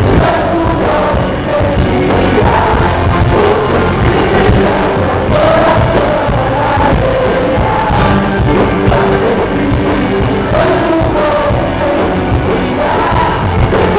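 Live gospel band music with singing, played loud and continuously.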